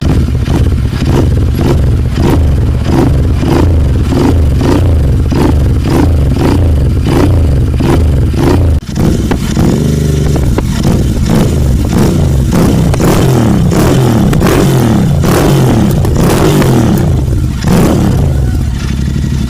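Royal Enfield 650 parallel-twin engine revved over and over through an aftermarket stainless steel exhaust, quick throttle blips whose pitch rises and falls about once a second, with a brief break about nine seconds in.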